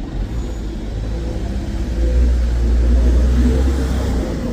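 Bus engine accelerating: a deep rumble that builds about two seconds in and eases off near the end.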